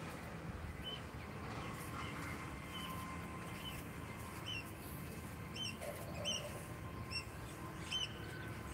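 A small bird chirping repeatedly, one short high note about every second, over a steady low outdoor background hum.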